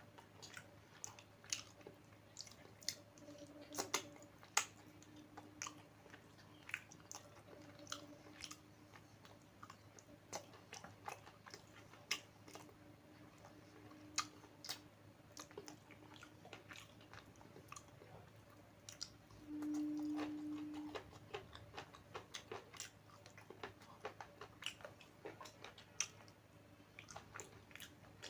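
Close-miked chewing and eating, with many small wet mouth clicks and the odd crunch. A short hummed "mm" is heard about twenty seconds in.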